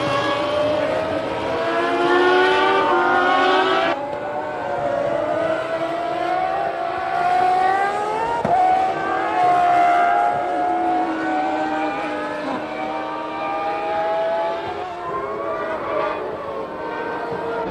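1996 Formula One cars' high-revving racing engines, climbing in pitch and dropping back with each gear change as the cars pass. The sound changes abruptly at about 4 seconds and again near 8.5 seconds, as shots change from car to car.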